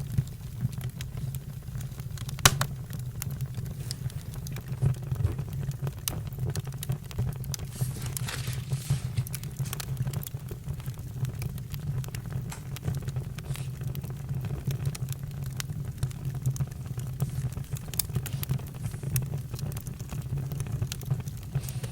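Campfire crackling with scattered sharp pops over a low, steady rumble, and a brief hiss about eight seconds in.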